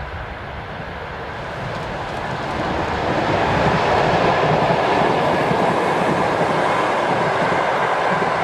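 A train hauled by an electric locomotive passing close by. Its wheels run on the rails with a steady rumble that grows louder over the first three seconds, then stays loud.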